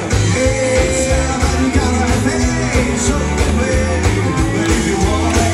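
A band playing an upbeat rock-and-roll gospel song, with no words sung, between the end of a verse and the chorus. A steady beat and strong bass run under held instrumental notes.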